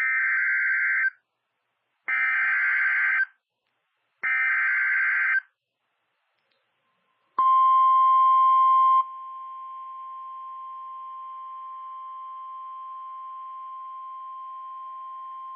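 NOAA Weather Radio emergency alert: three one-second bursts of the SAME digital header, a harsh warbling data screech, then the steady 1050 Hz warning alarm tone held for about nine seconds, which drops in level after the first second and a half. The tones announce that a warning message follows.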